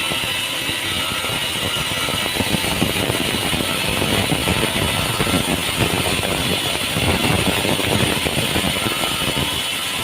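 Sawmill machinery running steadily, with a dense crackle of small knocks over a continuous mechanical noise.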